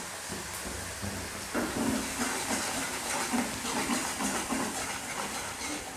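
Onion paste sizzling in hot oil in a kadai over a low flame: a steady hiss, with a spatula stirring and scraping the pan from about a second and a half in.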